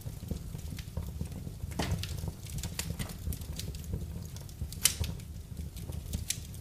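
Wood fire burning in a fireplace: irregular crackles and snaps over a steady low rumble, with one sharp pop just under five seconds in.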